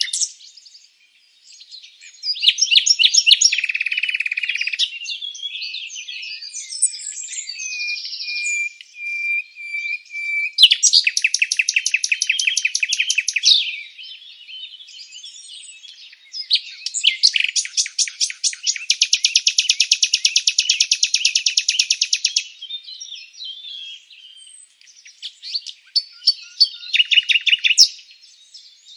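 Songbirds singing: loud, rapid trilled phrases lasting a few seconds each come about four times. Softer scattered chirps and a short steady whistle fill the gaps between them.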